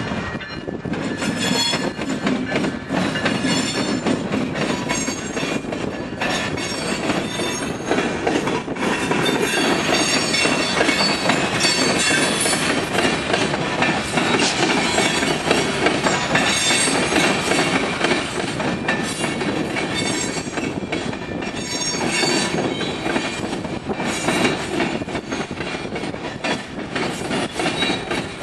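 Freight train of covered hopper cars rolling past at speed, steel wheels clattering over the diamond crossing and rail joints in a steady run of clicks. Intermittent high-pitched wheel squeal rides over it.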